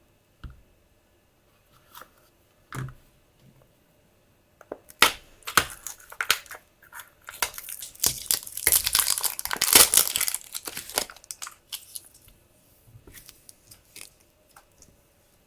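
A few light taps, then packaging being torn open and crinkled for several seconds, loudest near the middle, then a few faint taps as it settles.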